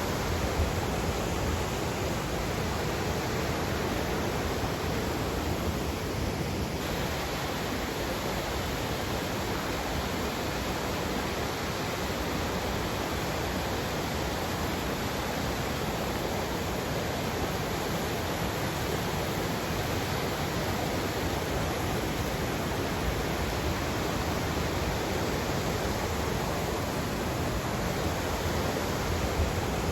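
A river rushing: a steady, even wash of flowing water with no let-up.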